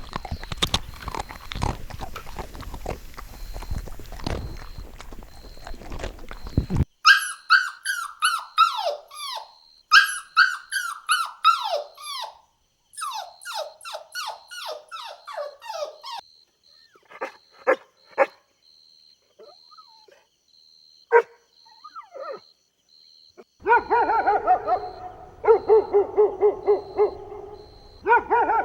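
Dog calls in separate stretches: first a rough, noisy stretch, then from about a quarter of the way in a rapid run of high yelps that each fall in pitch, then a few scattered short yips, and near the end a quick series of lower calls that hold their pitch.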